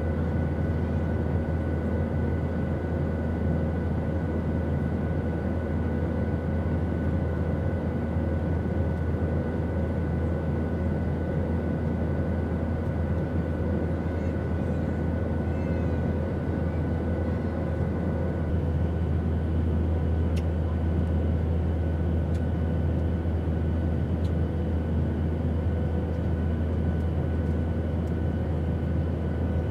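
Airplane engine and airflow drone, steady and unbroken, with a strong deep hum under it and a few faint steady whining tones above. About two-thirds of the way through, the whining tones shift, with a higher one taking over.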